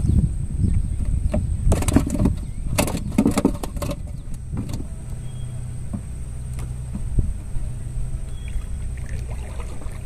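An engine running steadily at low speed, with a run of knocks and clatter between about two and five seconds in.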